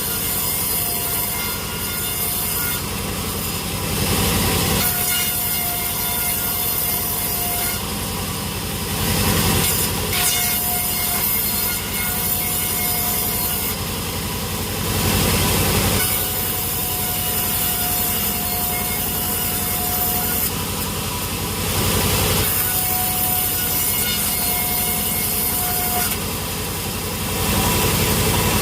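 Sawmill saw cutting through a log with machinery running, a steady whine that comes and goes in a repeating cycle every five to six seconds.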